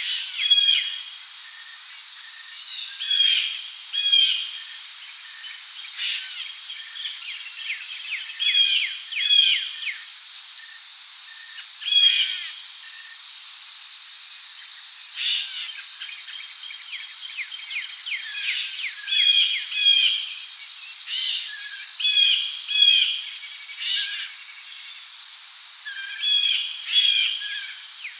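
Tropical rainforest ambience: a steady, high insect drone of crickets, with bird calls coming every second or few, often as short paired or chirping notes.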